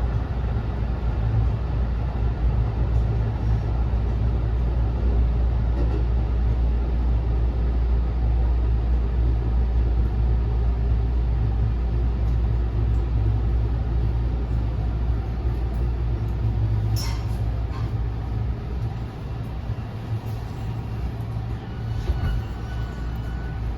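Cabin running noise inside a JR West 207 series commuter train car: a steady rumble of wheels on rail, with a couple of sharp clicks about two-thirds of the way through. The rumble eases toward the end as the train slows for its stop, with faint high tones near the end.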